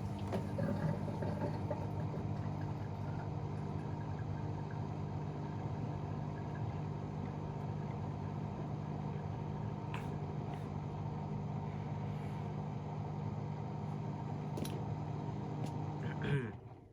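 AEG Protex Plus front-loading washing machine spinning steadily at speed in its final spin, the drum motor giving a level hum and whine with no change in pitch; the tub unit is newly fitted after the old one's bearings failed. The sound drops away abruptly near the end.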